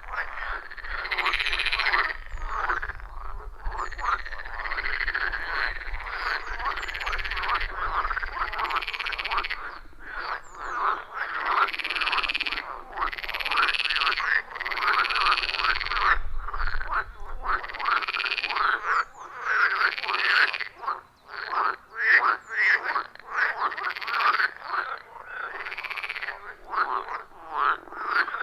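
Chorus of frogs at a pond, many calling at once in overlapping, repeated croaking calls about a second long. A faint low rumble underneath stops about two-thirds of the way through.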